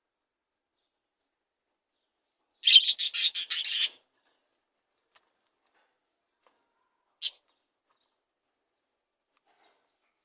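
Budgerigar chirping: a quick string of about eight high chirps lasting just over a second, then a faint tick, and a few seconds later one short chirp, with silence between.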